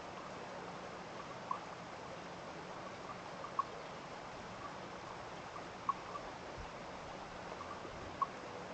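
Water dripping after rain: single short plinks about every two seconds, four clear ones, over a steady background hiss.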